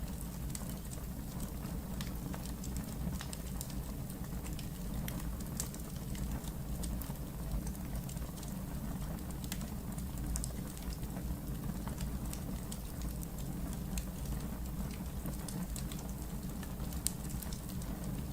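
Wood fire burning in a fireplace: a steady low rumble with scattered small crackles and pops, one sharper pop near the end.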